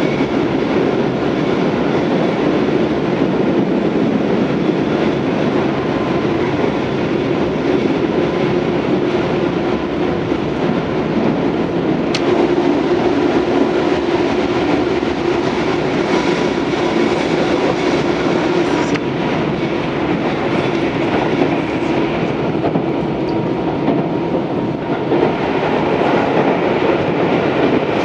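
Tobu 634-series electric railcar running at speed, heard from inside the car: a steady rumble of wheels on rail with clickety-clack over rail joints. A steady hum runs through the middle, and there is a single sharp click about twelve seconds in.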